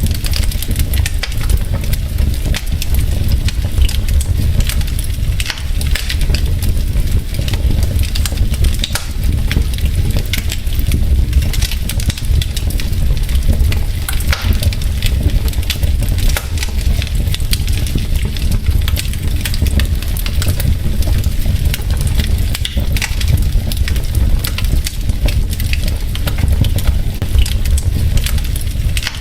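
Wood fire crackling in a fireplace: dense, irregular small pops and snaps of burning logs over a steady low rumble.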